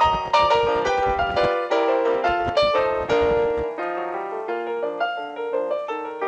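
Piano music, a quick run of separate notes, with an irregular low rumble beneath it that stops about three and a half seconds in.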